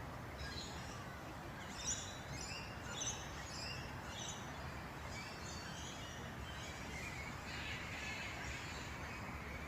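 Several birds chirping and calling over a low, steady background noise, with two sharper calls about two and three seconds in.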